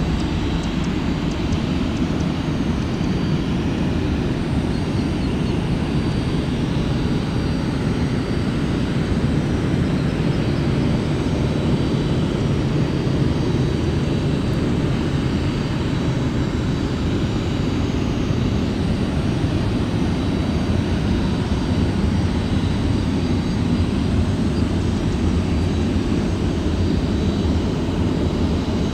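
Jet engines of a Boeing 737-400 running steadily: a continuous low rumble with a faint high whine over it.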